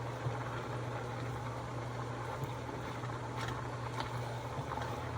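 A steady low hum under a faint hiss, with a couple of faint short clicks about three and a half and four seconds in.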